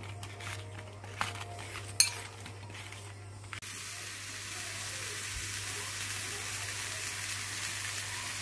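A few light taps and clicks of okra being tossed with salt and turmeric in a ceramic bowl, then, about three and a half seconds in, okra frying in a square nonstick pan: a steady sizzling hiss over a low hum.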